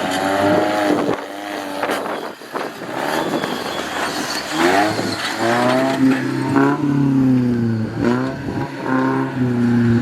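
Off-road 4x4 engine revving up and down over and over, its pitch rising and falling, strongest in the second half.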